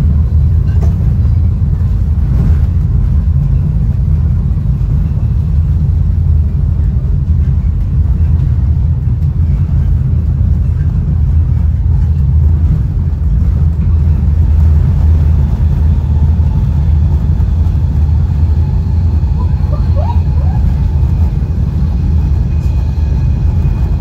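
Caltrain Gallery passenger coach rolling at speed, heard from inside: a steady, loud low rumble of wheels on the rails and the car body, with a few faint clicks.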